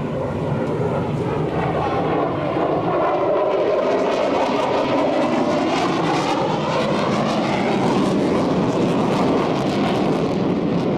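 Aircraft flying past, a steady loud engine rush with a whooshing tone that sweeps up and down as it passes.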